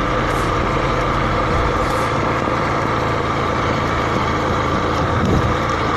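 Small motorcycle engine running steadily while riding, a constant hum with no change in pitch.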